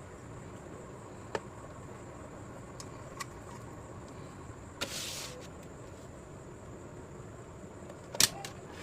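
Handling noise during a small repair: a few sharp clicks and knocks, a brief rustle or scrape about five seconds in, and a loud click near the end, over a steady background hiss.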